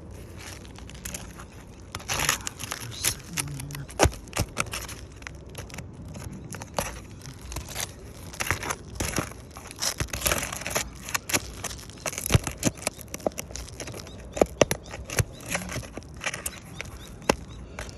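Staples being pried out of asphalt roof shingles, a tool scraping and catching under the shingle with irregular sharp clicks and the crackle and tearing of the shingles being lifted.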